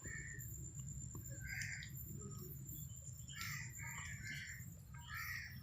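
Parrots giving short calls, one about a second and a half in and a cluster of several from about three seconds on, over a low steady rumble and a faint high whine.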